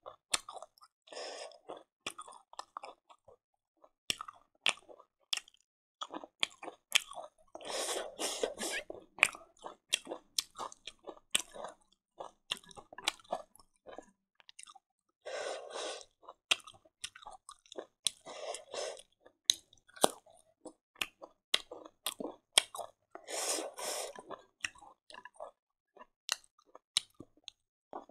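Close-up chewing of a mouthful of fried silkworms: wet chewing in bouts of about a second, broken by many sharp, crisp crunches.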